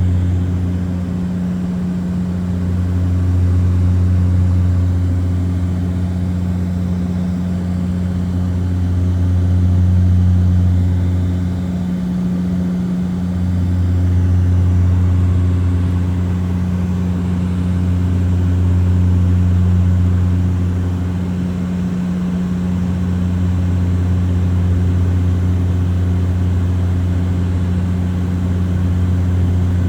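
Propeller airliner in flight: a steady low drone from the propellers and engines, swelling and easing in loudness about every ten seconds.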